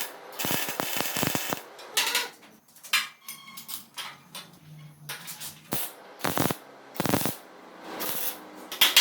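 Workshop clatter: irregular knocks and clanks with short scraping sounds between them, like parts and tools being handled.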